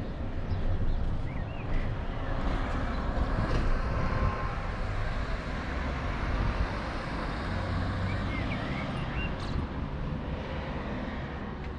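Steady low outdoor rumble that swells over the first few seconds and eases toward the end, with a few faint bird chirps.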